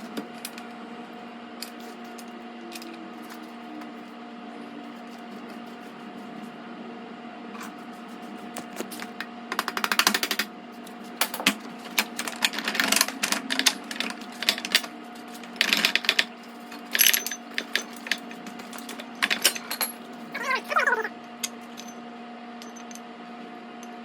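Metal parts and hand tools clinking and knocking over a steady low hum: a motorcycle's rear axle hardware being tapped and worked loose. The knocks come in irregular clusters, loudest about ten seconds in and again around thirteen to seventeen seconds, with a short falling squeak about twenty seconds in.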